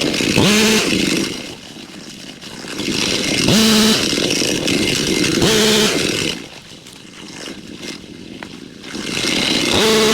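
Two-stroke gas weed eater (brush cutter) revving up to full throttle and dropping back, again and again, as it cuts brush along a fence line. The engine climbs in pitch with each rev-up: at the start, around the middle twice, and near the end.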